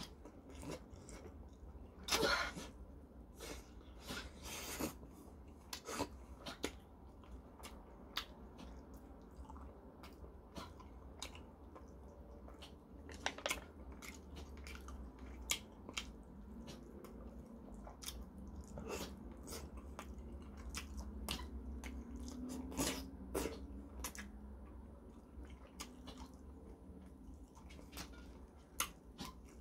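A person chewing and biting into chicken, with many short wet mouth clicks and smacks scattered throughout and a louder bite about two seconds in. A steady low hum runs underneath.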